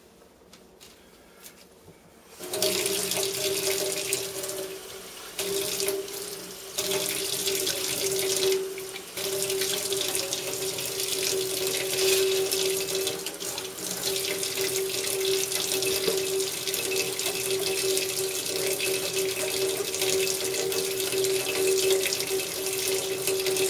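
Faucet running water into a sink, rinsing a removed air-conditioner condensate drain tube, with a steady hum from the tap. The water comes on about two seconds in, and the flow is briefly interrupted a few times early on before running steadily.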